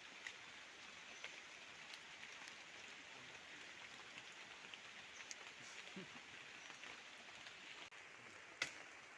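Near silence: a faint steady outdoor hiss with scattered small ticks, and one sharp click near the end.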